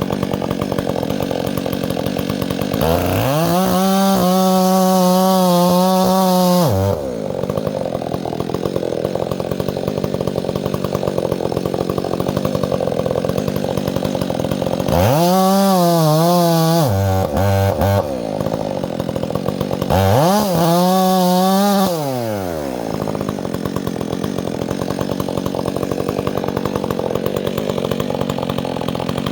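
Chainsaw running at idle, revved up to high speed three times: a longer run of about four seconds early on, then two shorter runs of about two seconds near the middle, each dropping back to idle.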